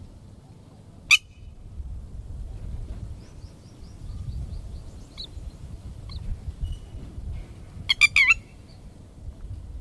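Red-wattled lapwing calls: one sharp call about a second in and a quick run of three or four near the end, with faint high chirps in between over a low rumble.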